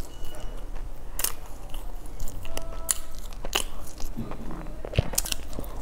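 Close-miked biting and chewing of a crusty sugar-topped bread bun, with irregular crisp crackles and crunches from the crust.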